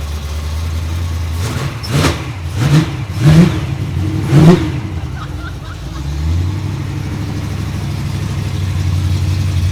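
Foxbody Mustang drag car's engine running cold just after a cold start, blipped four times in quick short revs between about two and four and a half seconds in, then settling back to a steady, loud idle that steps up slightly around six seconds.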